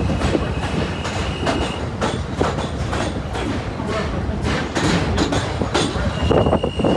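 New York City subway train running along the track from inside the car: a steady rumble with wheels clicking over rail joints. A thin, steady high whine fades about two seconds in and comes back near the end as the noise grows louder.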